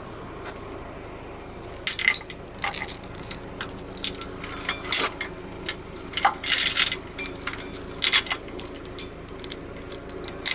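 Forklift engine idling steadily under a run of sharp metal-on-metal clinks and clanks that start about two seconds in, as the Big Cam Cummins engine block is lifted and turned over.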